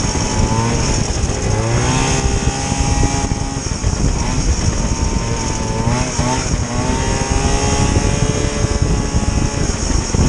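Vintage snowmobile's two-stroke engine running, its pitch rising and falling as the throttle is worked, around two seconds in and again around six seconds in.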